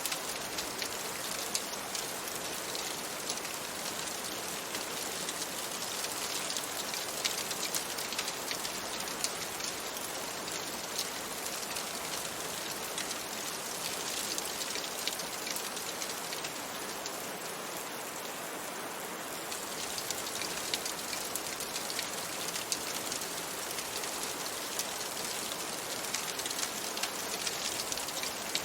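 Steady rain on a window: an even hiss dense with small, sharp ticks of drops, the level holding steady throughout.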